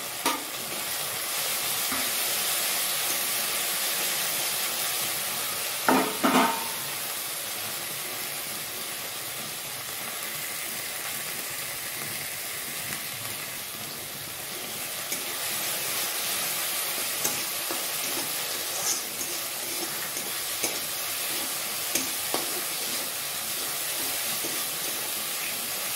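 Food sizzling in hot oil in a wok while a metal spatula stirs and scrapes it. A pair of loud metal clanks come about six seconds in, and lighter taps of utensil on metal follow now and then.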